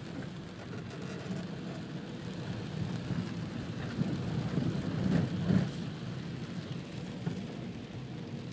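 Heavy rain drumming on a car's windshield and roof, heard from inside the car as a steady low hiss. A louder low rumble swells and peaks about five seconds in, then fades.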